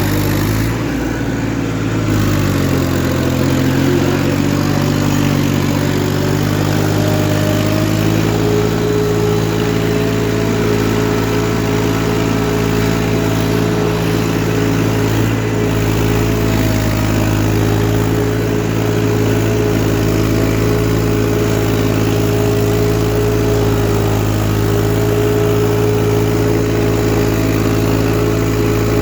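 Massey Ferguson 1035 DI tractor's three-cylinder diesel engine running hard while pulling a cultivator. The engine speed sags over the first couple of seconds, then climbs back and holds steady.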